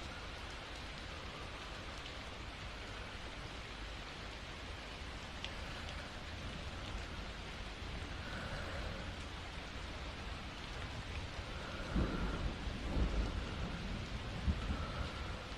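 Steady rain with a low rumble of thunder rolling in about three-quarters of the way through.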